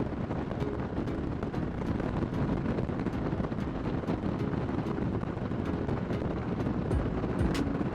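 Kawasaki Vulcan 1600 Nomad's V-twin engine running steadily while cruising, with wind noise on the rider's microphone.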